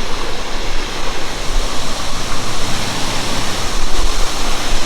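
Loud, steady roar of a large mountain waterfall, Naga Falls, its water in heavy, fast flow.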